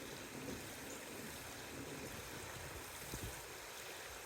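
Faint steady rush of creek water running over shallow rocks, with a couple of small knocks a little past three seconds in.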